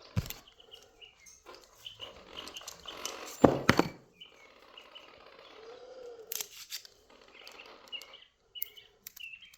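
A bird chirping again and again in short high calls, mixed with clicks and knocks of parts and tools being handled on the bench; the loudest is a quick cluster of knocks about three and a half seconds in.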